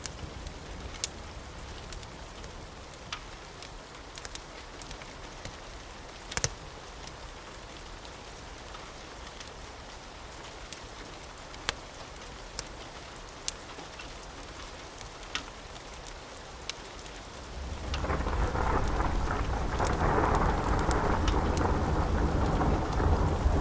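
Steady rain with scattered sharp ticks. About three quarters of the way through, a loud, low thunder rumble builds and keeps rolling.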